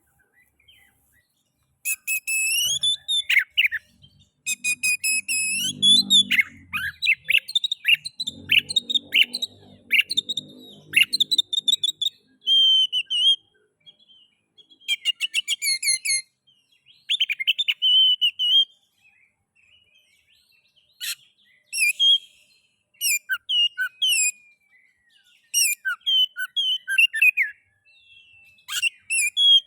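Oriental magpie-robin singing a loud, varied song of whistles and rapid trills in short phrases with brief pauses, starting about two seconds in.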